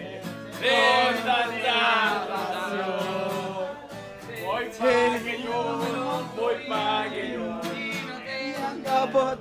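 A song sung with guitar accompaniment.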